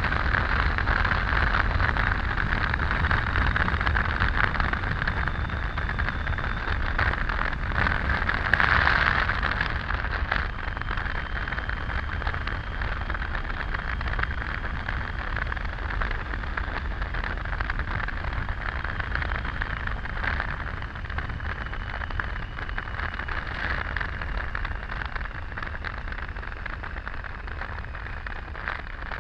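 Wind rush and road noise from riding a Triumph Tiger 800 motorcycle at speed, with its engine running underneath. The noise is steady, peaks about a third of the way in, then eases a little.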